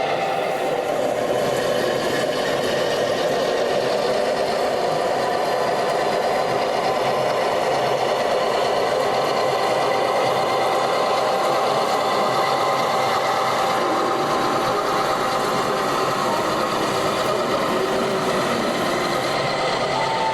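Model locomotive running on a layout: a steady whine from its small electric motor and gears, with the clatter of wheels on track.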